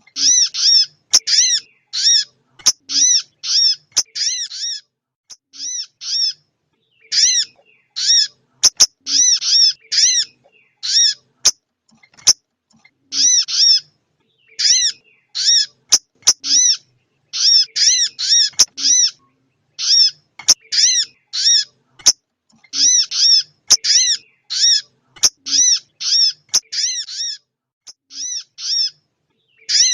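Recorded calls of a female sogok ontong bird: quick runs of short, high chirps, about two or three a second, broken by brief pauses, with scattered sharp clicks.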